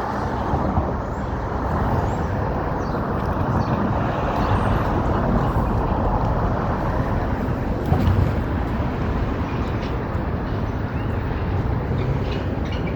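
Steady urban street traffic noise: a continuous rush of passing road vehicles, briefly a little louder about eight seconds in.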